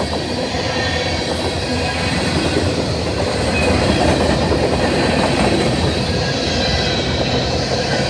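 Freight cars of a CSX freight train rolling past close by: a steady, loud rumble of steel wheels on the rails with rapid clicking as the wheels cross rail joints.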